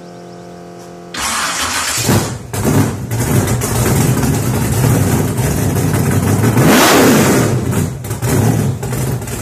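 A car engine starting and running as an intro sound: a steady tone for about a second, then a loud burst as it fires. It settles into a low rumble, with one rev rising and falling about seven seconds in.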